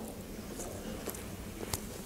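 Close-miked chewing of a small chocolate-glazed curd snack, a few soft mouth clicks over a faint low hum.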